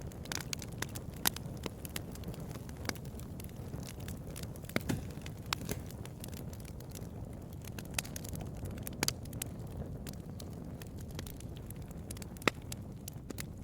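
Bonfire crackling: a steady low rumble of burning wood with irregular sharp pops and snaps throughout, several of them louder than the rest.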